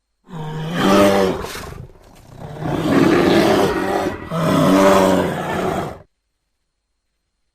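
A large animal roaring: three deep, loud calls in quick succession, the last two almost running together, stopping abruptly about six seconds in.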